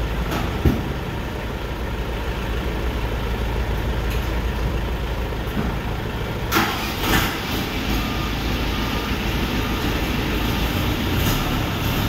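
Tractor engine running steadily with a low rumble. There is a sharp knock near the start and two short clatters around the middle.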